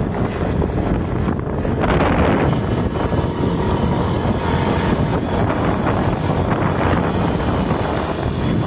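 A vehicle running steadily, with wind rushing over the microphone: a loud, even rumble with no breaks.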